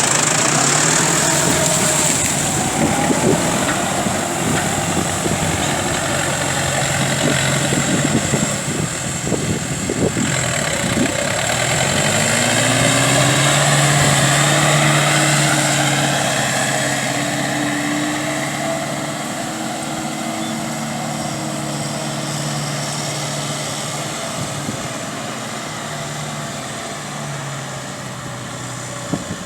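Massey Ferguson 4290 Turbo tractor's turbo diesel engine working under load while churning through wet mud and water. About twelve seconds in, the engine note rises and holds, then gradually fades.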